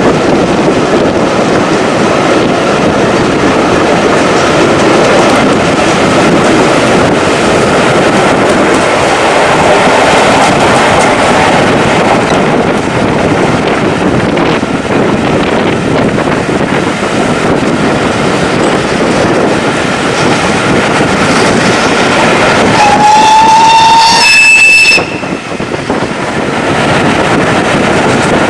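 Heritage railway train running, a loud steady rush of noise throughout. Near the end the locomotive's whistle sounds once for about two seconds, rising slightly in pitch, then cuts off sharply.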